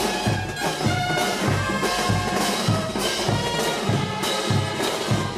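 Brass band playing: brass horns holding a melody over a steady bass drum beat.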